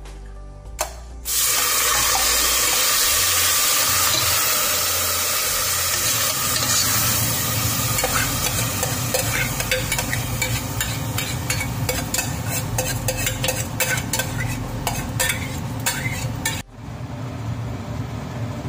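Hot ghee sizzling in a pressure cooker as rice is fried in it. From about eight seconds in, a spoon scrapes and clicks against the pot while the rice is stirred. The sizzle drops off suddenly near the end.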